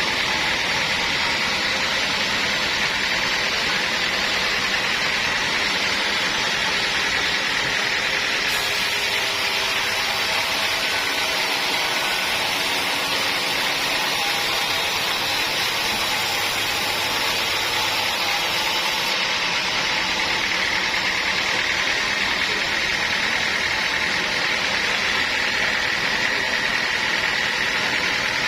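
Sawmill machinery running steadily: a continuous mechanical din with a steady high whine, unchanging in level.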